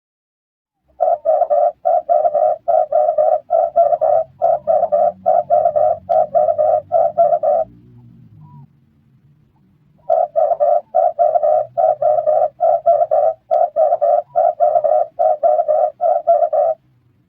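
Red turtle dove cooing: two long runs of rapid, evenly repeated coo notes, about two or three a second, each run lasting six to seven seconds with a short pause between.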